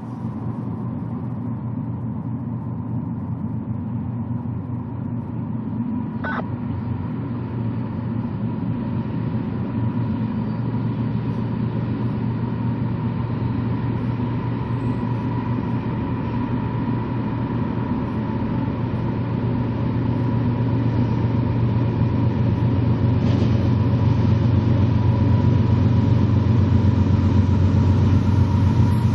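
Freight train passing by with a steady low rumble and a faint steady high tone over it, growing gradually louder.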